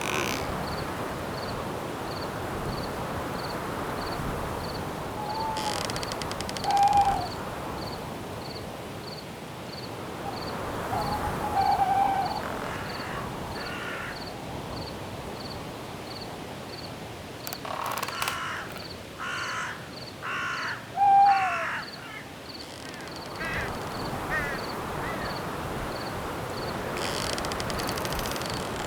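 Night forest ambience: a steady rush of wind in the trees under a cricket chirping at an even rate, and a bird giving short calls several times, loudest about a quarter of the way in and again a little past the middle.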